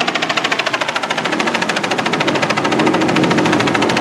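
Helicopter rotors beating overhead: a fast, steady, even chop.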